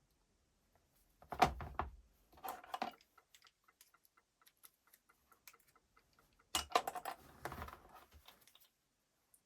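Small hard parts clicking and rattling as they are handled, in two short bursts about five seconds apart, with scattered light ticks between.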